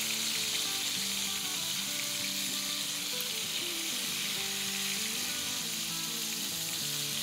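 Salmon pieces shallow-frying in hot oil in a pan, a steady sizzle, as they are turned over with tongs. Soft background music with held notes sits underneath.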